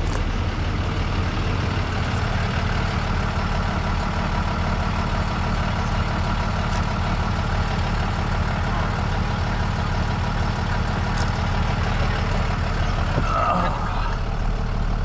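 Truck engine idling steadily. There is a brief higher-pitched sound about thirteen seconds in.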